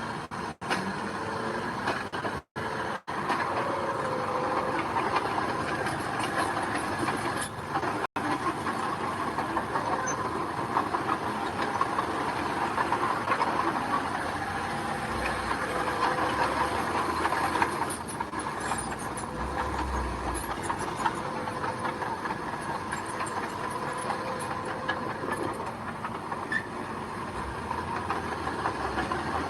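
Crawler bulldozer at work: its diesel engine runs steadily under a dense clatter from the machine. The sound cuts out briefly a few times in the first seconds and once at about 8 s.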